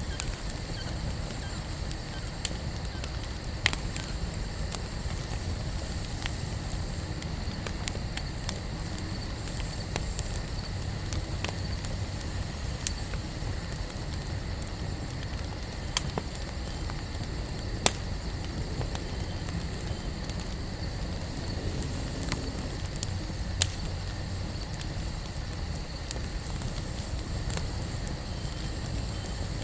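Wood campfire burning with a steady low rumble and soft crackling, broken by sharp pops at irregular intervals every few seconds.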